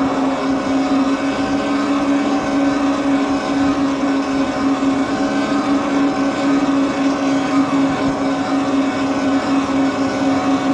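An e-bike's electric motor whining at a steady pitch while cruising at constant speed, over the rush of tyre and wind noise.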